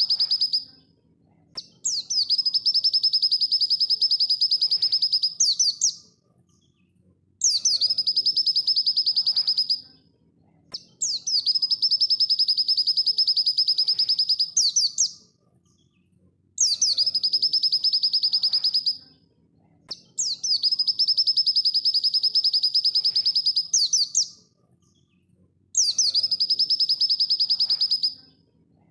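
Pleci dakun white-eye singing its fast, high, rattling trill song in repeated bouts of about three to four seconds, each closing with a quick flourish, with short pauses between about six bouts.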